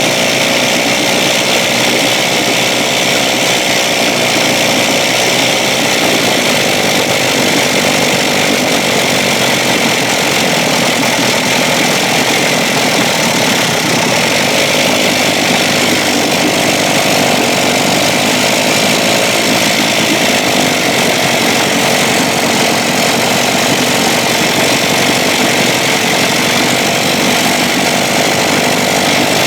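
1956 Evinrude 7.5 hp two-cylinder two-stroke outboard motor running steadily.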